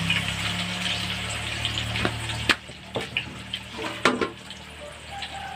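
Tofu frying in hot oil in a wok over a wood fire: a steady sizzle with scattered small pops. A low hum stops about two and a half seconds in, with a sharp click there and another about four seconds in.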